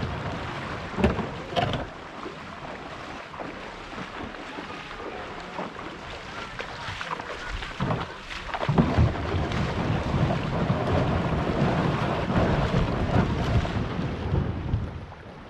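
Wind buffeting the microphone outdoors, with a low rumble that grows heavier in the second half and a couple of sharp knocks about a second in.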